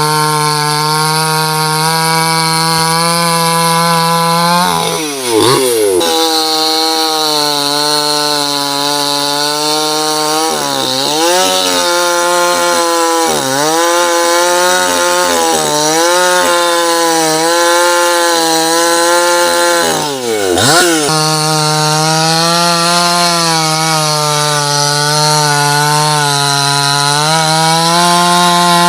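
Two-stroke chainsaw running at high revs. Its pitch dips sharply and climbs back several times, as the throttle is eased or the chain bites into the wood.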